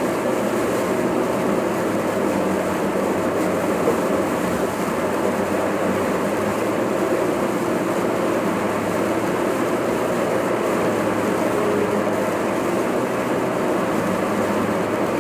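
Steady road and engine noise heard inside a moving car, an even rumble with no sudden changes.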